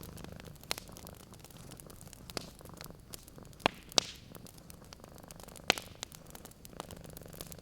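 Wood fire in a fireplace crackling, with scattered sharp pops, the loudest three near the middle. A cat's low purr runs faintly underneath, growing clearer near the end.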